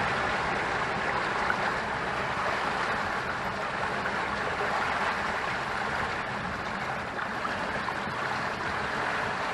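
Steady rush of water along the hull of a Tanzer sailboat running at about six and a half knots under reefed sails in following waves, mixed with wind.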